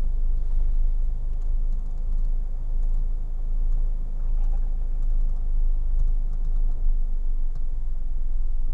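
Car heard from inside the cabin: a steady low rumble of engine and road.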